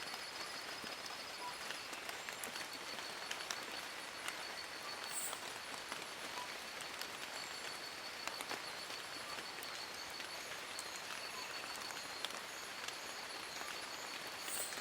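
Steady rain in a forest, with many small drops pattering on leaves. A continuous high, rapidly pulsing trill from an animal runs underneath, with a few short chirps.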